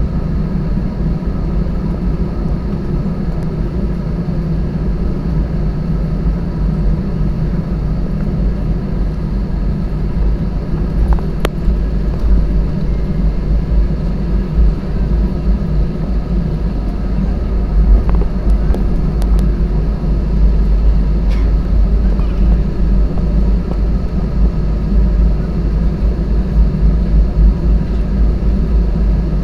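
Airbus A320 jet engines heard from inside the cabin while taxiing: a steady low rumble with a faint steady hum of tones above it and a few brief clicks.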